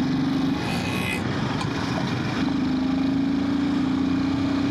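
Royal Enfield Himalayan 450's single-cylinder engine running under way, with wind and road noise. Its steady hum comes back about two seconds in and climbs slightly in pitch.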